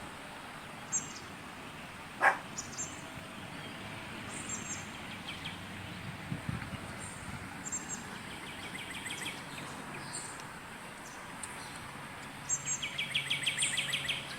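Small birds chirping, with short high calls scattered over steady outdoor background noise and a rapid trill of repeated notes near the end. A single sharp click about two seconds in is the loudest sound.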